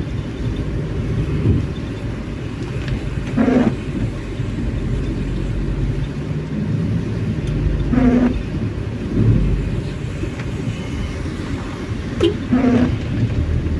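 Steady road and engine noise of a moving car. A short pitched sweep comes back about every four and a half seconds, three times.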